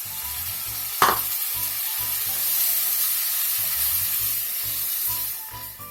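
Chopped tomatoes sizzling hard in hot oil and onion masala in a karahi, with one sharp knock about a second in; the sizzle fades near the end. Background music plays underneath.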